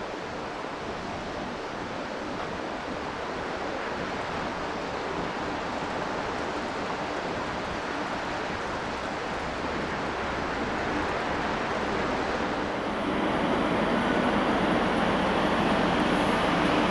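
Steady rushing noise that grows slowly louder, with a low steady hum joining about 13 seconds in.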